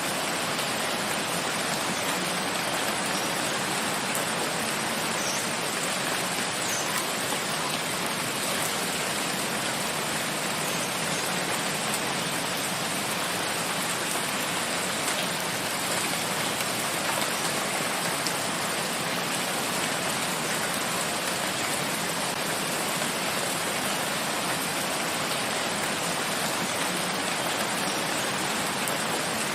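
Steady rain falling in a forest, an even hiss of many raindrops with no change in strength.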